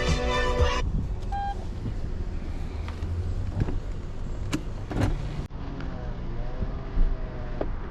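Background music that stops within the first second, then a car's steady low rumble with a few sharp clicks.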